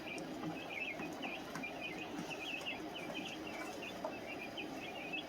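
Brooder of baby chicks and guinea keets peeping: many short, high chirps overlapping continuously.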